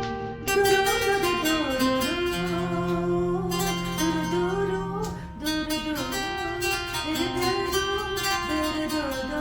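Music led by plucked acoustic guitar, with a gliding melody line over it.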